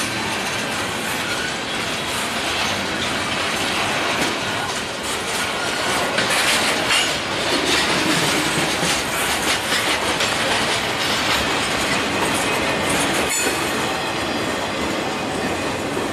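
Freight train cars rolling past close by: a loud, steady rumble of steel wheels on rail, with a run of clicks and clatters as the wheels cross the rail joints.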